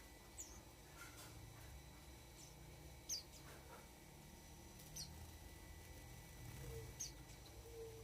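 Tame white-eye giving four faint, thin, high chirps, each a quick downward slide, about two seconds apart.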